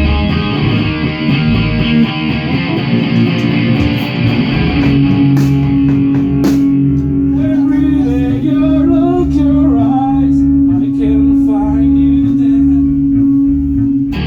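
A rock band playing: electric guitar over a steady low beat. About five seconds in, a long low note is held through to the end while a higher melody bends above it.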